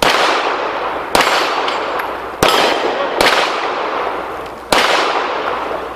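Pistol shots fired at steel targets: five shots spaced unevenly over about five seconds, each followed by a long echo that fades out.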